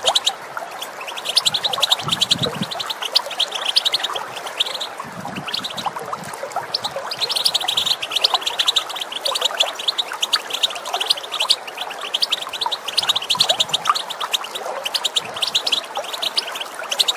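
European goldfinches giving their rapid twittering call, runs of fast, sharp chirps with brief breaks, over the steady rush of running water.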